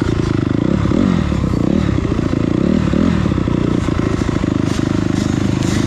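Motocross dirt bike engine revving hard and easing off again and again, its pitch rising and falling about once a second as the rider works the throttle around the track.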